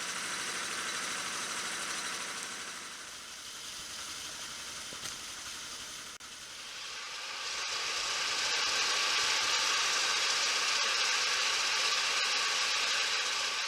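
Motorbike on the move: a steady rushing hiss of wind and road noise over a faint engine hum, growing louder about seven seconds in.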